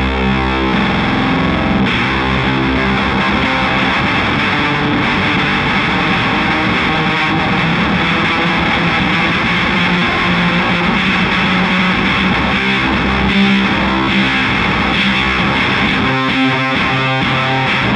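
Castedosa double-neck baritone electric guitar played continuously with heavy distortion, its fuzz circuit engaged.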